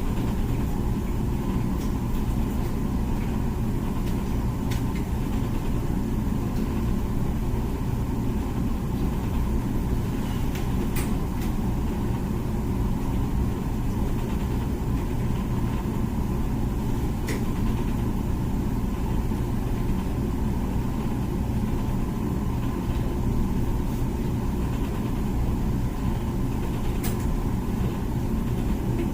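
Comfee dishwasher running its wash cycle: a steady low hum from the wash pump and circulating water, with a few faint clicks.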